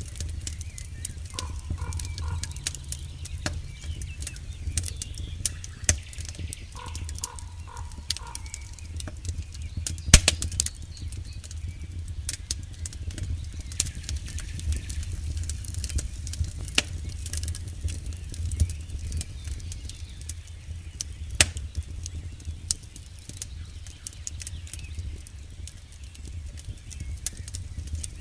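Campfire crackling, with irregular sharp snaps and pops over a steady low rumble; one snap about ten seconds in is the loudest. Twice in the first third a short run of three or four quick, evenly spaced high notes sounds over it.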